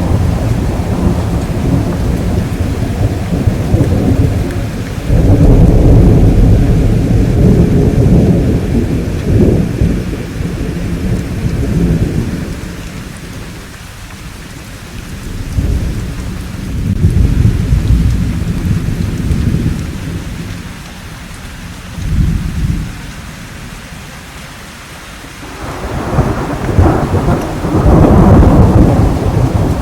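Thunderstorm: rolling thunder in long low rumbles that swell and fade several times over steady rain. The rumbling eases in the middle, with a short burst about two-thirds of the way in, and builds again near the end.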